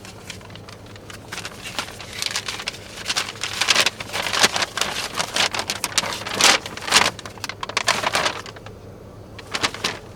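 Crackling, rustling handling noise with many sharp clicks, close to the microphone, busiest through the middle and dying down near the end.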